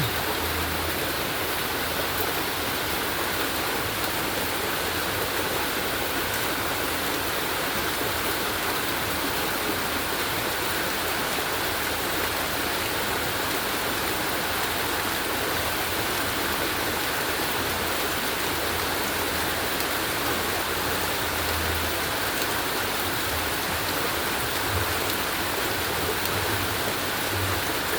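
Rain falling steadily, an even continuous rush of water.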